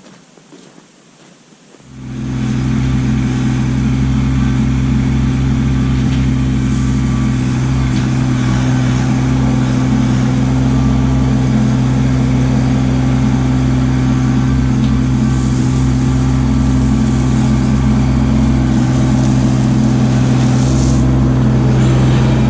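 Kubota LX2610 compact tractor's diesel engine running at a steady speed, cutting in suddenly about two seconds in.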